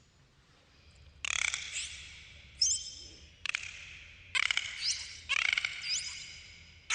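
Dolphins calling: a run of buzzing click trains about a second apart, with short rising whistles among them.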